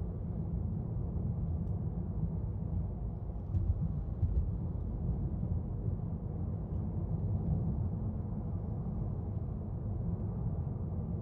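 Steady low rumble of a car moving along the road, heard from inside the cabin, with a few faint ticks.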